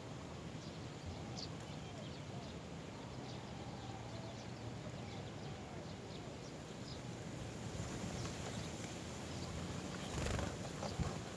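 Outdoor background with faint, scattered short bird chirps and a few soft lower calls, then a brief louder rustle and a click near the end.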